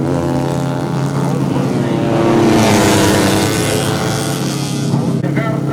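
Four-stroke 150cc underbone race motorcycle engines running at high revs on the circuit. One bike passes close, loudest about two and a half to three and a half seconds in.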